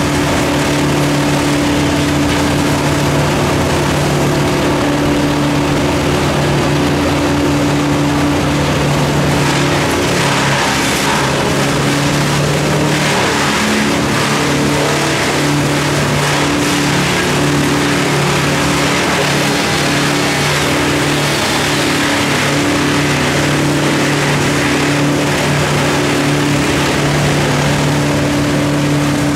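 An engine running steadily at a constant speed, its note wavering in the middle stretch as if under changing load.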